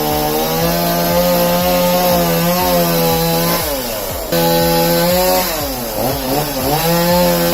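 Chainsaw running at high revs, its pitch dropping as it bogs down in the cut and climbing back again, twice. The sound breaks off abruptly a little past halfway and picks up again.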